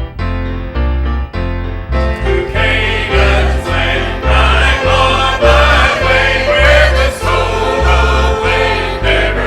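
Church choir singing a gospel hymn, coming in about two seconds in after a short piano introduction, with piano and a steady pulsing bass underneath.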